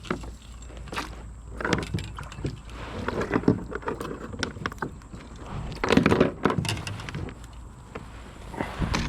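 Irregular knocks, clicks and rattles of gear being handled in a kayak, louder in clusters about two, three and a half, and six seconds in.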